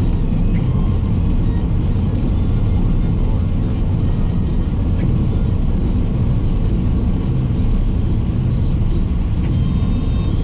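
Steady low road and engine rumble inside a moving car's cabin, with radio music playing faintly underneath.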